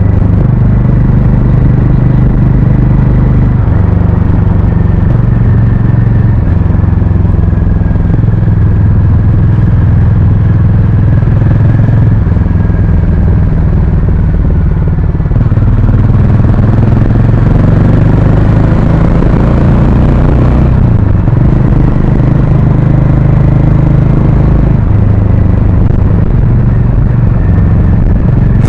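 Harley-Davidson X440's single-cylinder engine and exhaust running loud while riding, its note stepping up and down several times with throttle and gear changes.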